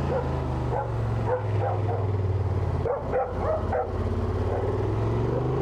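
Vehicle engine running at a steady drone, with several short, high yelps over it in the first few seconds.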